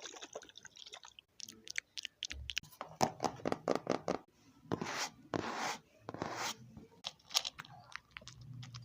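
Close-miked crunching, clicking and scraping sounds, irregular and rapid, with longer hissy rustles about five and six seconds in.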